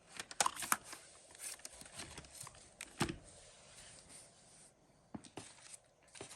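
Packaging being handled: irregular rustling and crinkling with a scatter of sharp clicks and knocks.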